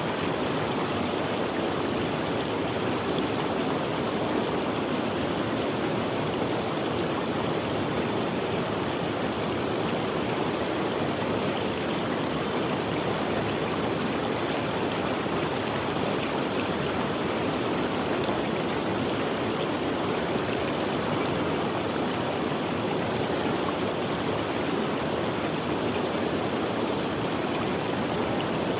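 Running water of a stream flowing over rocks, a steady rushing and gurgling that does not change.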